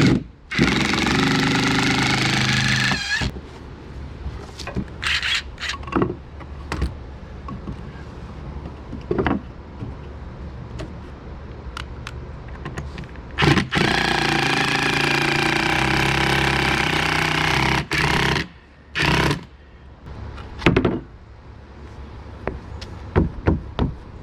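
A power tool running in two long bursts, about three and four seconds long, plus a short one near the end, with scattered knocks and taps on wood between.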